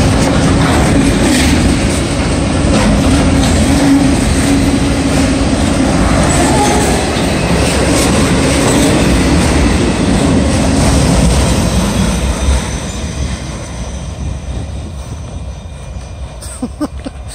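Freight train of autorack cars rolling past at close range: steel wheels rumbling and clattering over the rails, with a steady low tone running through the noise. The sound fades from about twelve seconds in as the end of the train passes and moves away.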